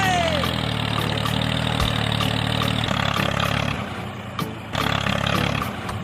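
A small engine running steadily, opening with a short falling tone. The engine's sound loosens and dips about three and a half seconds in.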